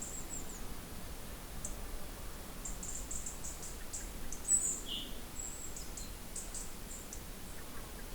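Small birds chirping: clusters of short, very high chirps, with one louder call about four and a half seconds in, over a faint steady background hiss.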